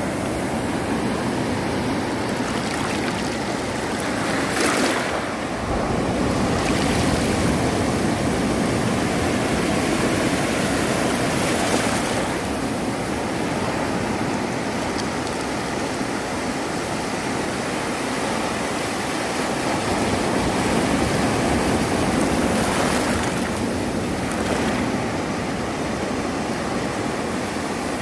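Ocean waves breaking and washing on a sandy beach, a continuous rush of surf that swells louder a few times as waves break.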